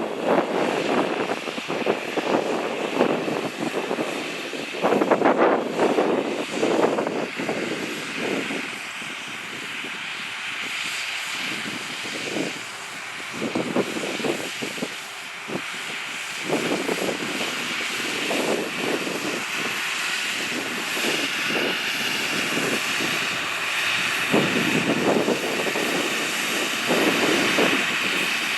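John Deere 8300 tractor's diesel engine running steadily while pulling a cultivator, with irregular louder swells coming and going.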